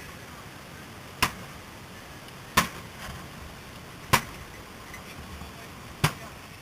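Four sharp blows of a forcible-entry hand tool striking, spaced about a second and a half apart, as firefighters force their way in.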